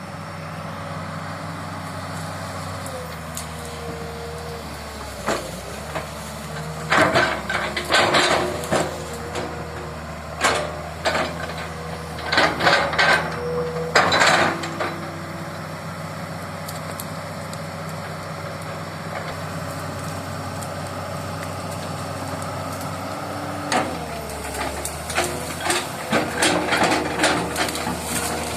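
Tracked excavator travelling: its diesel engine running steadily, with several bouts of clanking and squealing from the steel tracks and undercarriage.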